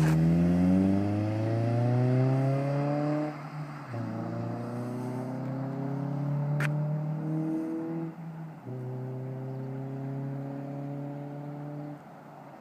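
2008 Honda Civic Si's 2.0-litre four-cylinder through a full race exhaust, accelerating under normal driving: the engine note rises steadily in each gear and drops at three upshifts, about three and a half, eight and a half and twelve seconds in.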